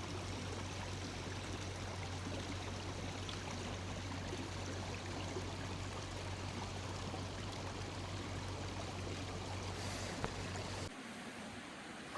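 Creek water flowing steadily, with a steady low hum underneath; it cuts off abruptly near the end.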